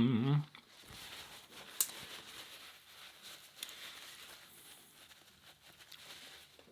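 A voice briefly at the start, then faint crinkling rustles with two light clicks, about two and three and a half seconds in.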